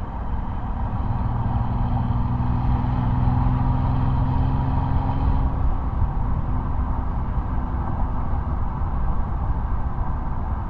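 2005 Mercedes-Benz SL600's twin-turbo V12 exhaust heard close up while driving. A steady engine note holds for the first half, then fades about halfway through into a low rumble with road and wind noise.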